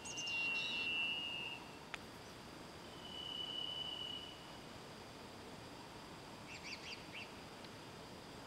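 Wild bird song: two long, steady whistled notes, the first at the start and a slightly higher one about three seconds in, then a short burst of chirps near the end. A single sharp click about two seconds in.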